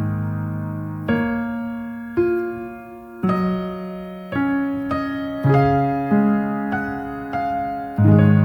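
Slow, gentle solo piano music: single sustained notes and chords struck about once a second, each ringing out and fading before the next.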